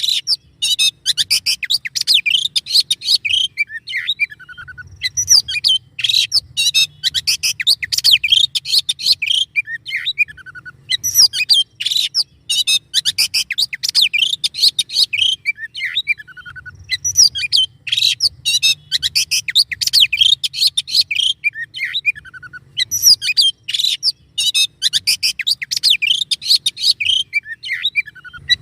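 Songbird masteran recording: a rapid, harsh song of dense chattering and clicking notes (tembakan). It comes in bouts of about four seconds, each opening with a short falling whistle, with brief pauses between and about one bout every six seconds. A faint low hum runs underneath.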